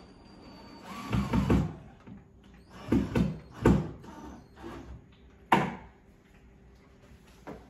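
Short knocks and handling sounds from a wall shelf being fitted, in several quick clusters, with a sharp knock about five and a half seconds in.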